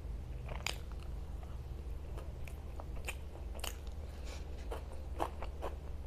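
Close-miked mouth sounds of someone eating pav bhaji: chewing and biting soft bread rolls dipped in the vegetable mash, with sharp clicks and smacks scattered through it and coming closer together near the end.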